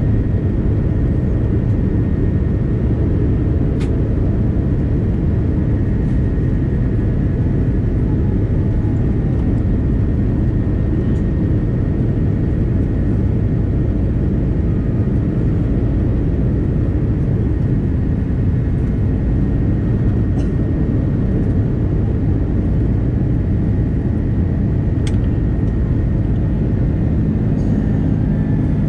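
Airbus A330-300 jet engines running steadily: a dense low rumble with a faint high whine held at one pitch, and a few faint ticks.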